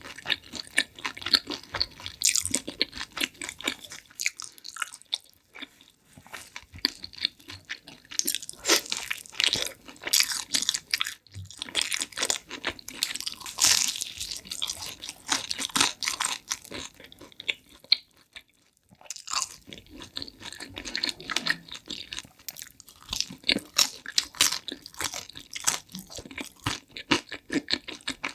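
Pizza crust being bitten and chewed close to the microphone: many sharp crunches and wet chewing sounds in quick succession, with two short pauses, about five seconds in and near the middle of the second half.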